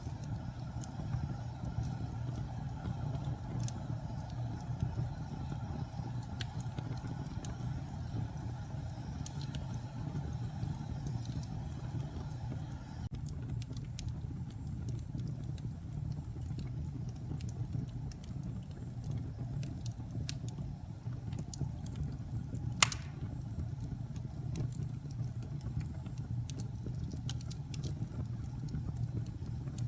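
Wood fire burning in a fireplace: a steady low roar of flames with scattered faint crackles and one sharp pop about two-thirds of the way through.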